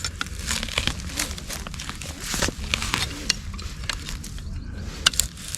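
Dry, hardening riverbank soil being dug up for worms: irregular scrapes and crunches of earth.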